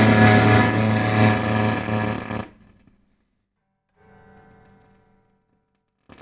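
Electric guitar played through a Blackstar HT-5R valve combo amp on its overdrive channel at full volume, sounding heavily distorted: the amp's fault, which makes it sound wrong on both channels. The playing cuts off suddenly about two and a half seconds in. A faint chord rings briefly around four seconds, and the loud playing comes back at the very end.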